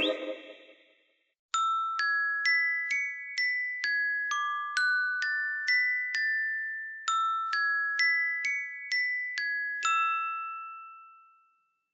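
An iPhone ringtone: a high, chiming melody of single struck notes, each ringing on as it fades, about two notes a second, the same phrase played twice and then dying away.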